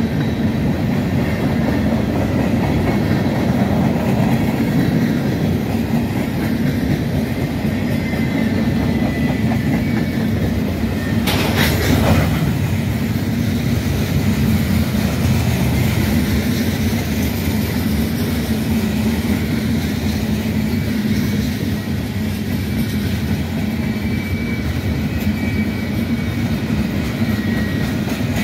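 Freight train of covered hoppers, boxcars, gondolas and tank cars rolling past: steady rumble and clatter of steel wheels on rail, with one sharp bang about twelve seconds in.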